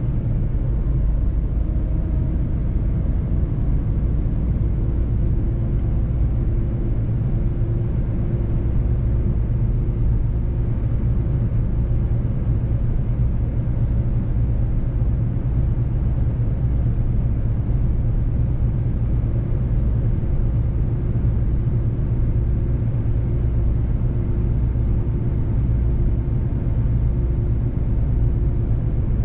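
Mercedes-Benz truck's diesel engine running steadily with road rumble at a constant cruising pace, a deep hum with a faint steady drone above it and no change in revs.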